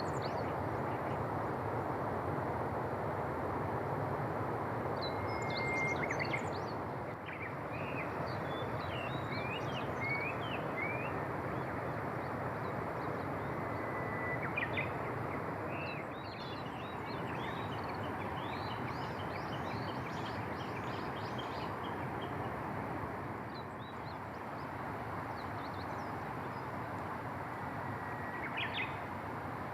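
Wild birds calling and singing over a steady rushing background noise. There are held whistle notes about six and fourteen seconds in, and a fast run of rising chirps a little later.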